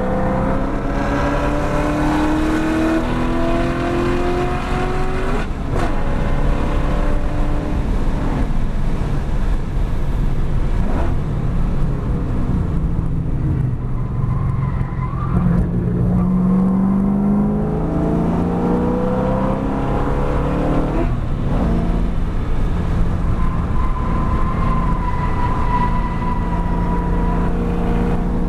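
2013 Camaro 1LE's 6.2-litre V8 under hard acceleration on a race track, heard from inside the cabin. The engine note climbs through the revs and drops at an upshift twice. It falls under braking for a corner partway through, then pulls up again, over steady road and wind noise.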